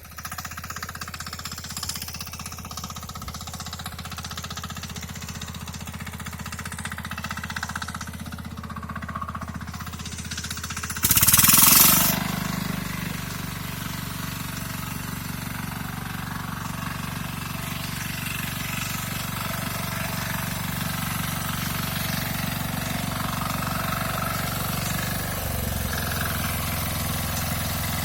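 KisanKraft KK-IC-400E power tiller engine running steadily under load while ploughing soil. About 11 seconds in there is a loud rushing burst lasting about a second. The engine note shifts then and again near the end.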